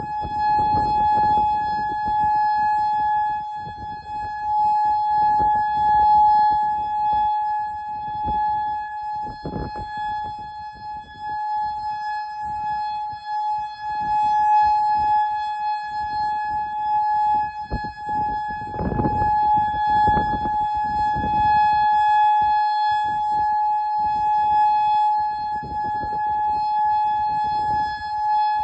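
Federal Signal Modulator outdoor warning siren sounding a steady, unbroken tone at one fixed pitch for a tornado warning. Irregular gusts of low rumbling noise come and go underneath it, strongest about a second in and again around two-thirds of the way through.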